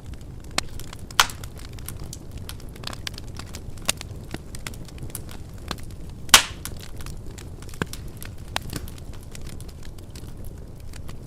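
Wood fire burning in a fireplace: irregular sharp crackles and pops over a low, steady rumble of flame, with the loudest pop a little past the middle.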